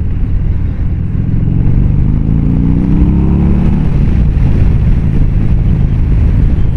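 Harley-Davidson Glide's V-twin engine under way, its pitch rising as the bike accelerates from about two seconds in to about four, then running steady.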